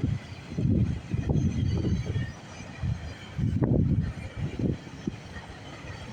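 GO Transit passenger coaches rolling past on the rails, a low rumble that comes and goes in uneven surges, loudest about halfway through.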